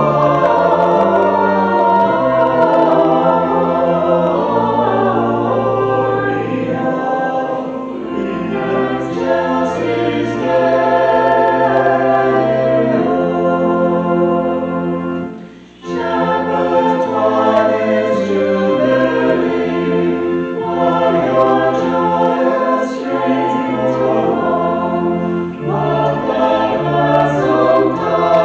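Choir singing a hymn with held low accompanying notes, with a short break between phrases about halfway through.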